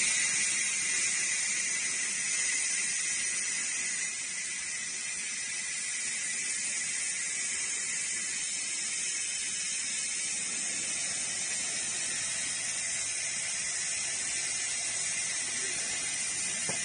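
Pulsed fiber laser cleaning machine ablating the surface of a tire mould: a steady, high-pitched hiss that drops a little about four seconds in.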